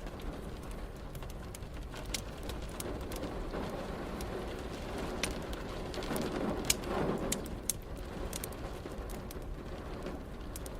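Wood fire crackling with frequent sharp pops over a steady rain hiss, with a low rumble that swells and fades in the middle.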